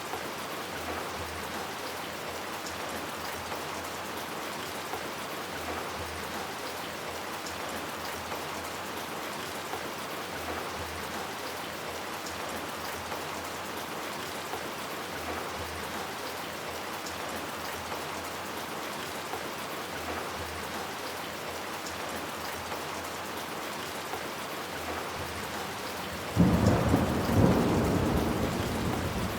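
Steady rain falling. Near the end a sudden loud crack of thunder breaks in and rumbles on.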